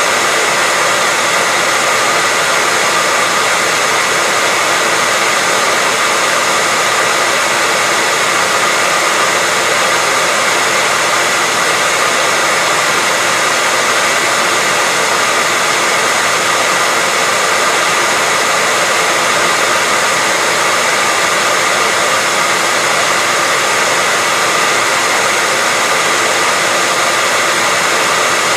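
Hair dryer blowing steadily, an unbroken rushing hiss with a faint whine from its fan motor.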